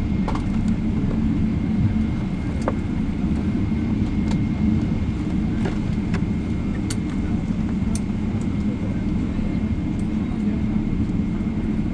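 Cabin noise inside a Boeing 777-300ER rolling on the ground after landing: a steady low rumble from the idling GE90 engines and the wheels, with a thin steady high whine and a few light clicks and rattles.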